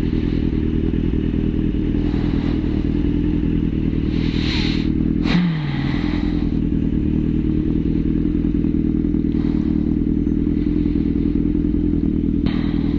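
Suzuki GSX-R sportbike engine idling steadily, with a brief drop in pitch about five seconds in.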